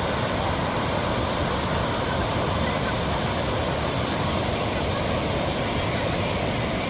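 Fast-flowing floodwater rushing past in a steady, unbroken wash of water noise.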